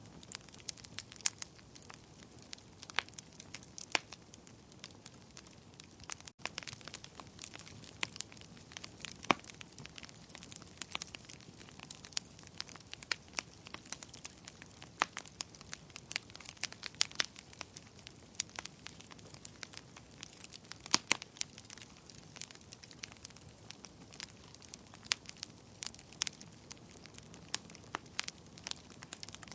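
Fireplace fire crackling: frequent, irregular sharp pops and snaps over a soft steady hiss.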